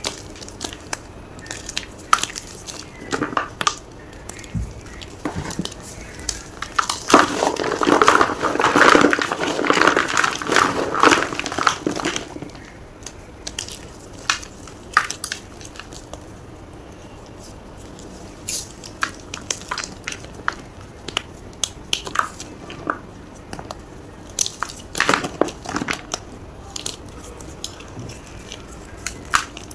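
Blocks of gym chalk being crushed, giving scattered crisp snaps and crackles, with a dense, loud stretch of crunching about a quarter of the way in.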